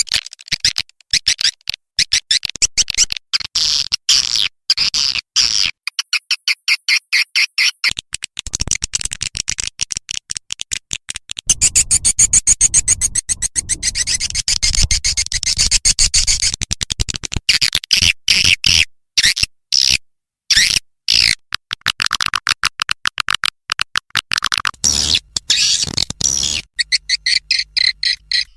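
Swiftlet call-sound track: dense, rapid trains of high-pitched swiftlet chirps and clicks, with a low rumble underneath partway through. It is the kind of lure sound played to draw edible-nest swiftlets into a swiftlet house.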